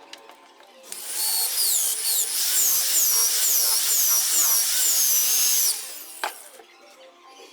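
Electric drill running for about five seconds, its whine repeatedly dipping and rising in pitch, followed by a single sharp click.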